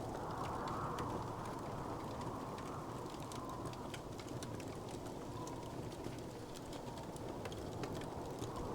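Wood fire crackling, with many small scattered pops and ticks over a steady low rush.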